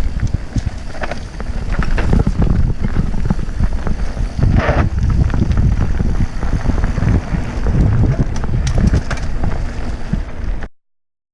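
Mountain bike riding down a rough, rocky trail: wind buffeting the microphone over a constant rumble, with quick rattling clicks from the bike. The sound cuts out abruptly shortly before the end.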